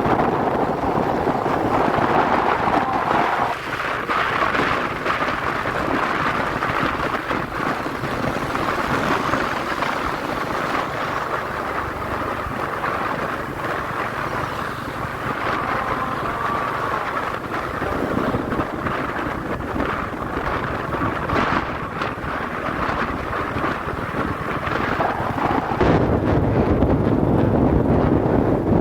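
Royal Enfield Classic 350 single-cylinder engine running under way, with wind rushing over the microphone. The engine's low end gets louder a few seconds before the end.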